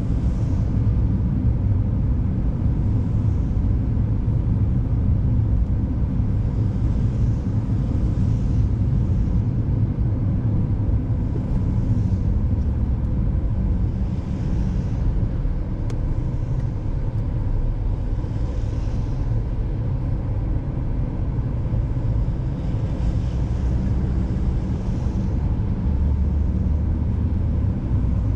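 Car driving on a snowy, icy road: steady low rumble of tyre and engine noise, with faint hissing swells every few seconds.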